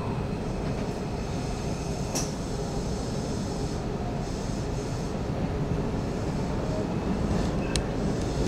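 Hanshin Railway electric train running: a steady rumble of wheels on rail that grows a little louder, with two sharp clicks, one about two seconds in and one near the end.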